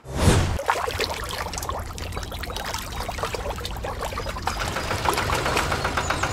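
Water trickling and splashing in small irregular drips over a low steady hum, opening with a brief knock.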